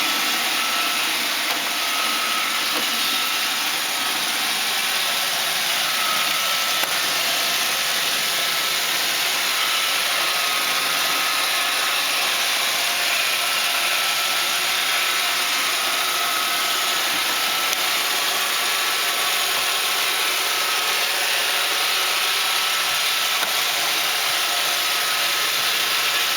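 iRobot Roomba 610 and 625 robot vacuums running: a steady whir of their vacuum motors and brushes with a faint high whine.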